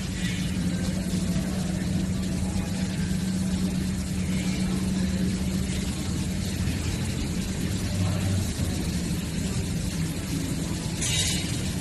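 Steady low mechanical hum with a constant drone, and a brief hiss near the end.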